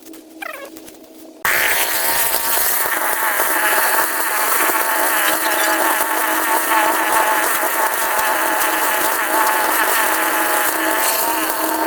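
A small motor buzzing steadily at high speed, with a slightly wavering whine. It starts abruptly about a second and a half in.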